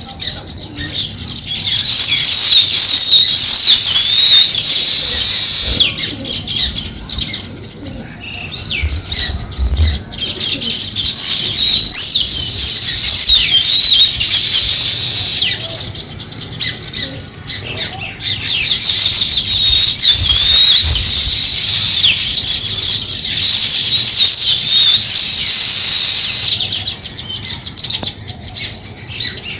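House sparrows chirping, with several birds calling at once in long, rapid bouts separated by quieter gaps. A few soft low thuds come in between.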